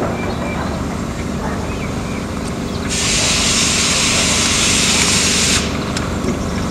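Miniature railway engines and generators running with a steady low rumble. About three seconds in, a loud burst of steam hissing starts suddenly and cuts off sharply nearly three seconds later, typical of a small steam locomotive blowing off steam.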